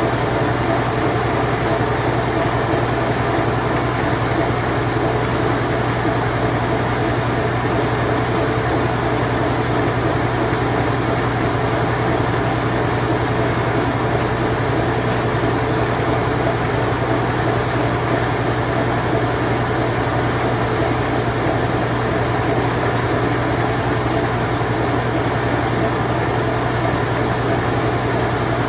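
Late-1980s Whirlpool Imperial Clean Touch top-loading washing machine running its spin cycle: a steady motor hum under an even whir, unchanging throughout.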